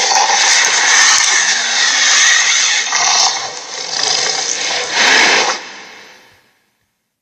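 Electronic dragon toy playing a harsh, noisy sound effect, which swells again about five seconds in and then fades out and stops about six seconds in.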